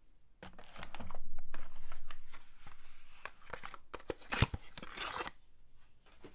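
A soap bar's wrapper being crinkled and torn open by hand, a run of rustling with small clicks, loudest early on and with one sharp click about four and a half seconds in.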